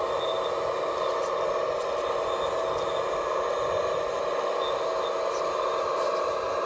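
Steady mechanical running of radio-controlled scale construction machinery: electric motors and hydraulics humming evenly, without starts or stops.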